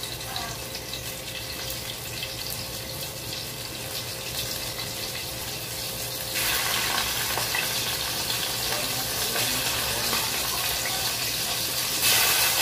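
Chicken pieces frying in hot oil in a pan: a steady sizzle with small crackles, getting louder about six seconds in.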